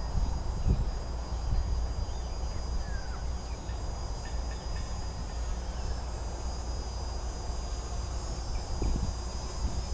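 Wind rumbling on the microphone, with a steady high-pitched whine running over it.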